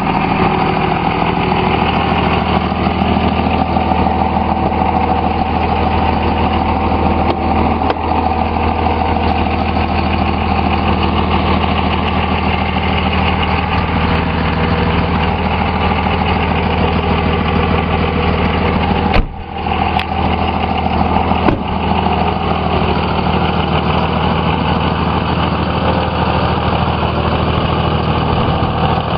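Dodge Ram's 5.9 Cummins turbo diesel inline-six idling steadily through a 4-inch performance exhaust. The sound breaks off briefly about two-thirds of the way through.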